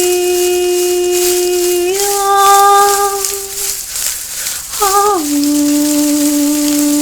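A woman's voice toning long held notes: one note, a step up a little under two seconds in, a short break around four seconds, then a slide down to a lower note held to the end. A rattle shakes steadily behind the voice.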